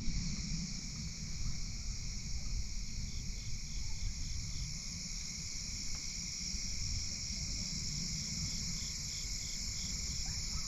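Late-summer insect chorus of crickets trilling steadily, with a pulsing call that repeats several times a second for stretches, over a low rumble.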